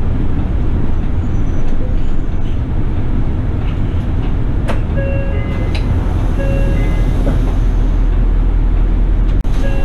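City bus running, heard from inside the cabin: a steady engine and road rumble, with a few short electronic tones about halfway through.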